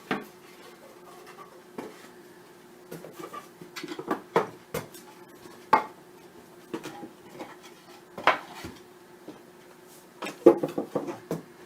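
Wooden beehive parts knocking and clattering as they are handled and set down, in irregular knocks with a quick cluster near the end.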